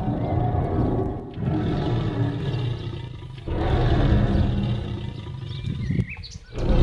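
Home-made dragon roar sound effect: three long, low, growling roars, one after another, with a short break between each.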